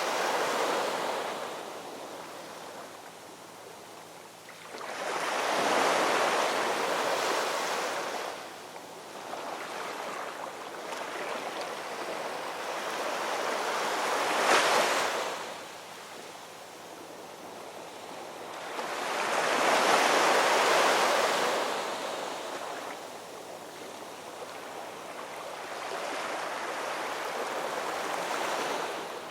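Ocean waves breaking and washing back in slow surges, about five swells a few seconds apart, with a sharper crash about halfway through.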